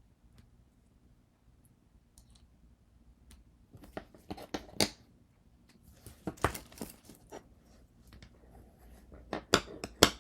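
Hands working copper foil around pieces of glass: three spells of small sharp clicks and scrapes, about four, six and nine seconds in.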